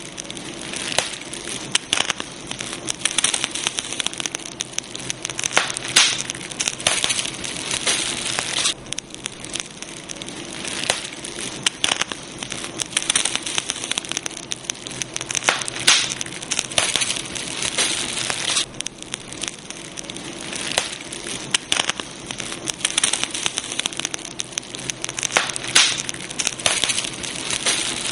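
Wood campfire burning, with dense, irregular crackling and sharp pops of the burning wood over a steady hiss.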